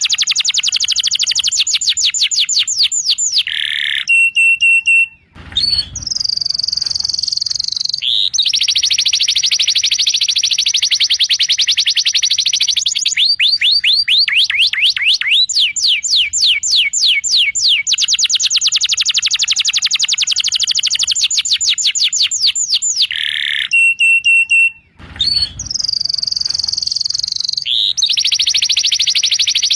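Domestic canary song, played as a tutoring recording: long runs of fast, high-pitched trills and rolls that switch to a new phrase every few seconds. It drops out briefly about five seconds in and again near twenty-five seconds, and the same run of phrases repeats after about twenty seconds.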